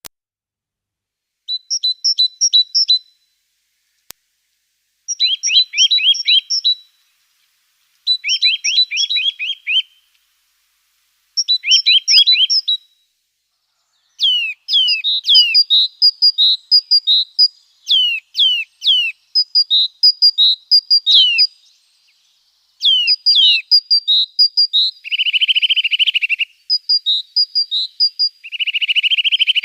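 Small songbirds chirping in short phrases of rapid high notes, some falling quickly in pitch. The phrases come every few seconds at first and run almost without a break in the second half, with two buzzy calls near the end.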